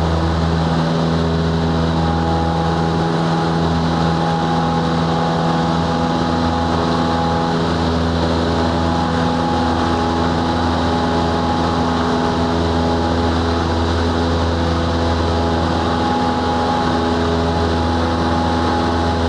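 Cessna 182's single piston engine and propeller running at a steady drone, heard from inside the cabin, with no change in pitch or level.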